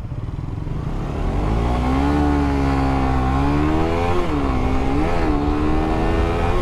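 Motorcycle engine running under throttle. Its pitch climbs about one to two seconds in and then holds, with two brief rises and falls around four and five seconds in.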